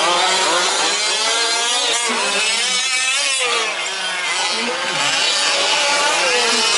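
Several 1/5-scale petrol RC truck engines, small two-strokes, running together around a track. Their overlapping pitches keep rising and falling as they throttle up and down.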